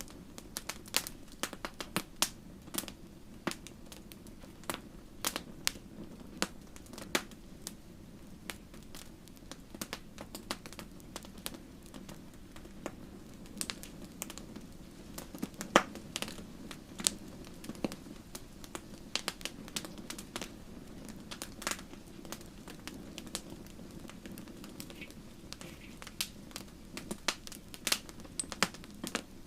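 Wood fire crackling: irregular sharp snaps and pops, some louder than others, over a low steady rush of the flames.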